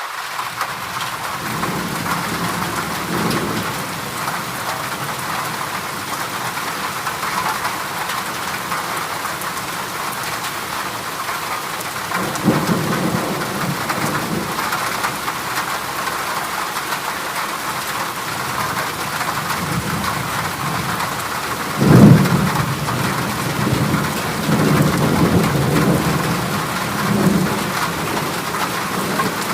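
Heavy rain drumming steadily on a corrugated zinc roof sheet. Low rolls of thunder rumble underneath, one about twelve seconds in, a loud crack about twenty-two seconds in, then more rumbling near the end.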